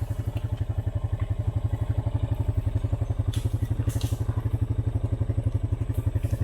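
Off-road vehicle's engine running steadily with an even, low putting pulse of about nine or ten beats a second.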